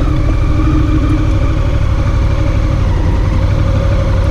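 Motorcycle engine running steadily at low revs, close to the microphone.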